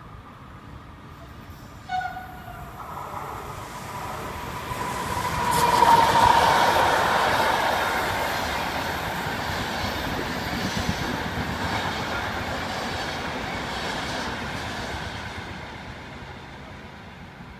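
A Trenitalia regional train of locomotive-hauled coaches running past, the rumble of its wheels on the rails growing to its loudest about six seconds in and then slowly fading as it moves away. A brief horn toot comes about two seconds in.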